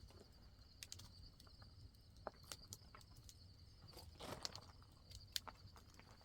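Near silence: faint outdoor ambience with a steady high hiss, scattered small clicks, and a brief rustle about four seconds in.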